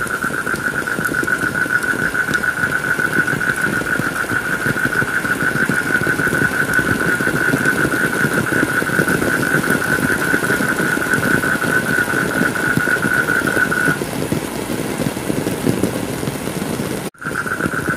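Steady heavy rain, with a continuous high-pitched buzzing tone over it that stops about three-quarters of the way through. The sound cuts out for an instant near the end.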